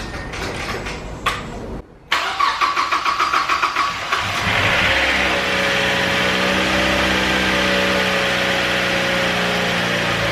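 A freshly rebuilt Mazda MX-5 four-cylinder engine is cranked by the starter for about two seconds with a pulsing rhythm, then catches about four seconds in and settles into a steady idle. It is a little noisy for a moment as it fires, which the owner puts down to the engine having sat for ages.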